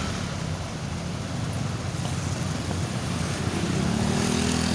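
Engine of a rice thresher-blower running steadily over a rushing noise, its pitch rising about three and a half seconds in as it speeds up.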